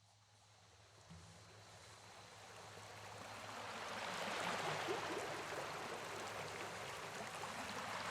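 Steady rushing water, like a stream, fading in and growing louder over the first few seconds, then holding steady over a low continuous hum.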